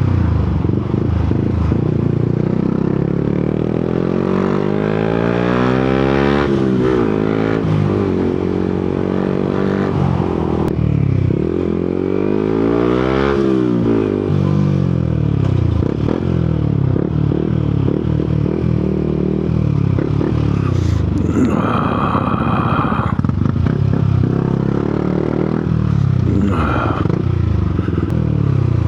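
Yamaha MT-125's 125 cc single-cylinder four-stroke engine under way, its pitch rising and falling repeatedly as it speeds up and slows down through the gears. A brief high tone sounds about two-thirds of the way through, with a shorter one near the end.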